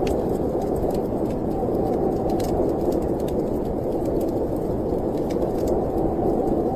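Steady storm wind, a low continuous rush, with faint scattered crackles of a wood fire over it.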